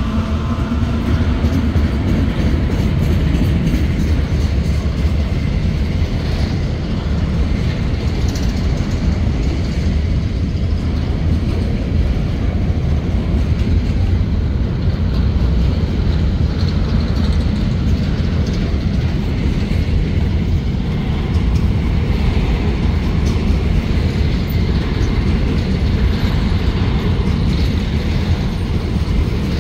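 A long freight train's covered hopper wagons rolling past close by: a steady, loud rumble of steel wheels on the rails.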